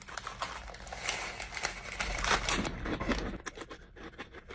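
Plastic snack packaging crinkling and crackling as it is handled and torn open, busiest in the middle and dying down near the end.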